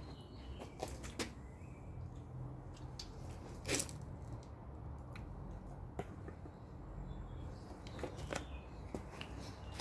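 Small clicks and rustles from loquats being handled and eaten, with one louder rustle nearly four seconds in, over a low steady hum.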